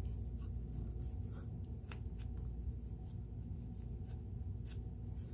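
Short scratchy rubbing and clicking sounds of hands wiping and handling the metal parts of a Kenmore sewing machine during cleaning with alcohol, over a steady low hum.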